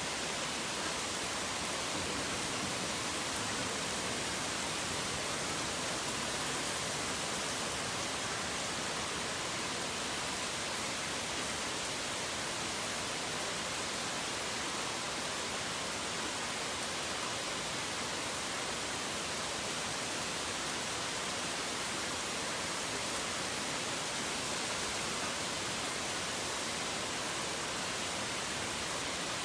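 Steady rain falling: an even, unbroken hiss with no single drops, thunderclaps or birdsong standing out.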